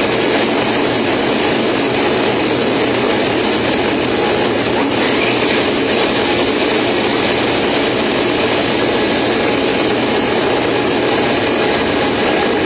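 Steady, loud rushing noise of an airliner heard from its landing gear: wind, engines and the gear assembly blending into one even roar.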